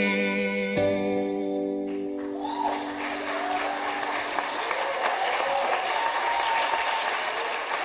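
The song's final chord rings out and stops about two seconds in. An audience then breaks into applause, with a voice or two calling out over the clapping.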